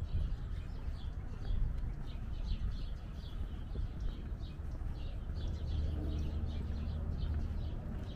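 Small birds chirping in a quick, steady series of short high notes over a low outdoor rumble. A steady low hum comes in a little past halfway.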